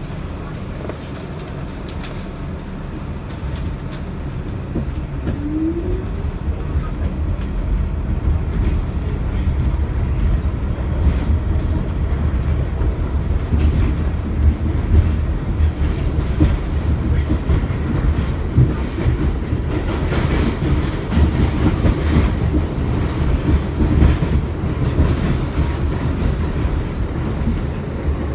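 Kawasaki R62 subway car in motion, heard from inside the car: a heavy rumble that grows louder over the first several seconds, then runs on with the wheels clicking over rail joints.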